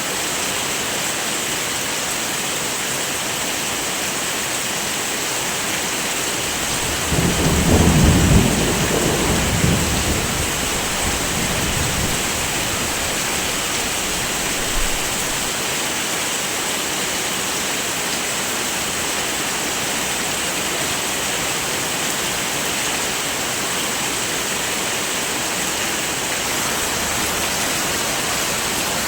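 Steady heavy rain, with a roll of thunder rumbling up about seven seconds in and dying away over the next few seconds.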